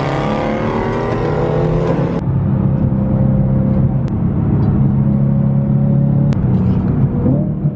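Car engine accelerating, its pitch rising, then about two seconds in an abrupt change to a steady, loud, low engine drone.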